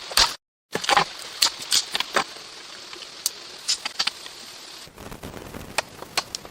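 Irregular sharp knocks and taps over a steady hiss, broken by a short cut to silence just after the start.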